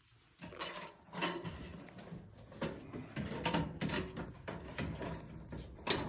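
Metal clicks, knocks and scraping from work on a fluorescent light fixture hung in a drop ceiling, where its corner support wires are being clipped. The clicks come irregularly, several of them, with rattling in between.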